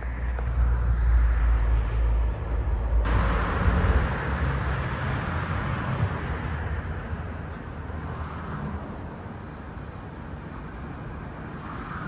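A train passing, a deep rumble that is strongest for the first three to four seconds, then easing into a steadier, quieter running noise.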